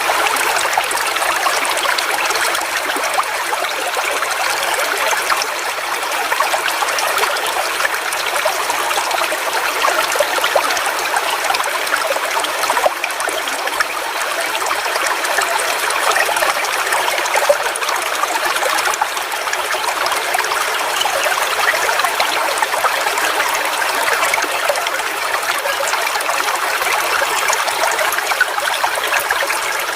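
Forest waterfall: water falling and splashing in a steady, unbroken rush, with a fine crackle of spray and droplets and little low rumble.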